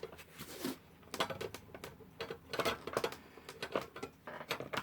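Irregular clicks, taps and scrapes of a mains plug being pushed and fumbled at a wall socket that it will not go into.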